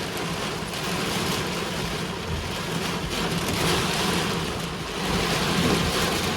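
Heavy wind-driven rain pelting a car's roof and windshield, heard from inside the car, with a steady low hum from the vehicle underneath.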